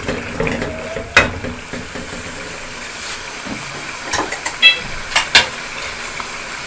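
Tomato-onion masala sizzling and bubbling steadily in a metal pan, with a few sharp clicks scattered through.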